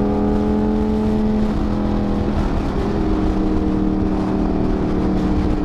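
Ducati V4 motorcycle engine running at a steady cruising note while riding, with wind noise over the mic. The engine pitch dips a little about a second and a half in and shifts again around three seconds.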